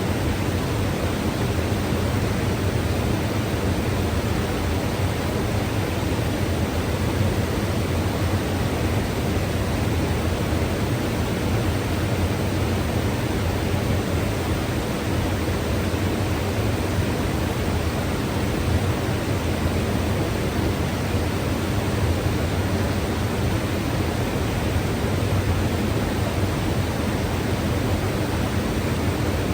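Mountain river rushing steadily, a dense unbroken roar of flowing water strongest in the low end.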